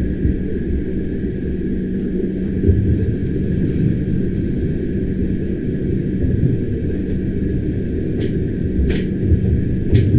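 Bernina Express train running on the rails, heard from inside a carriage: a steady low rumble and hum, with light clicks and a sharp knock about nine seconds in.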